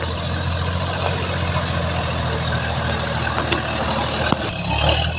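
Tractor diesel engine running steadily with a fast, even firing pulse, a sharp click about four seconds in and a change in its note near the end.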